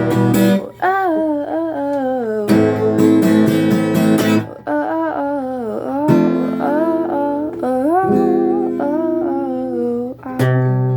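Acoustic guitar strummed in chords, with a voice singing a gliding melody over it, without clear words.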